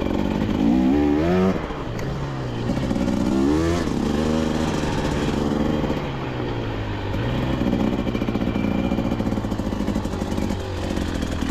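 KTM 250XC-W two-stroke dirt bike engine revving, the pitch climbing sharply about a second in and again near four seconds, then holding fairly steady revs with a brief drop about seven seconds in.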